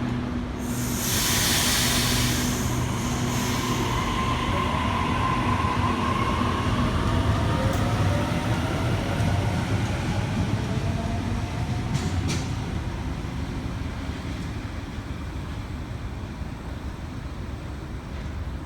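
Waratah electric train pulling out of an underground platform. A loud air hiss comes early on as the brakes release, then a whine rises in pitch as it accelerates away, with a couple of sharp clicks midway. The train sound slowly fades as it leaves.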